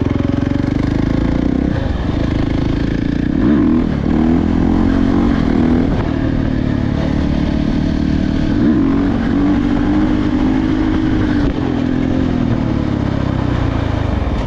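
Dirt bike engine running hard under throttle, its revs dropping and climbing again several times.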